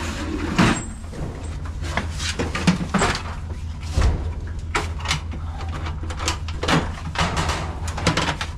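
A string of clanks and knocks as boxes and lids are handled and moved about, over a steady low rumble.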